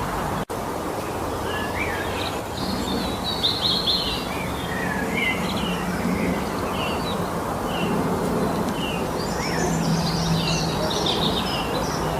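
Several songbirds chirping and singing: short scattered calls throughout, with busier warbled song about three seconds in and again near the end, over a steady background hiss. The sound drops out for an instant about half a second in.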